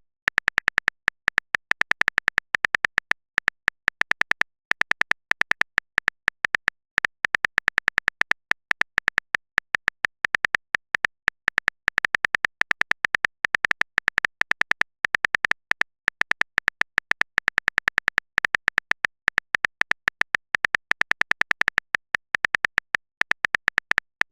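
Keyboard typing sound effect: quick, even clicks, several a second, with a few short pauses, the sound of a text message being typed out.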